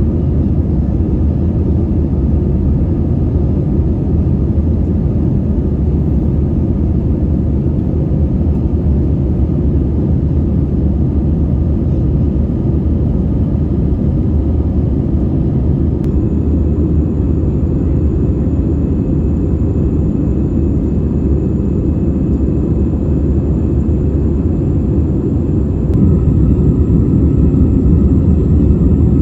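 Steady in-flight cabin noise of an Airbus A320-214: a deep, even roar of its CFM56 jet engines and the air rushing past the fuselage, with a faint steady whine over it. The roar steps up slightly a few seconds before the end.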